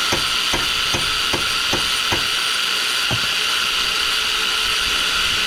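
Power tool running steadily with a high motor whine, ticking about twice a second through the first half.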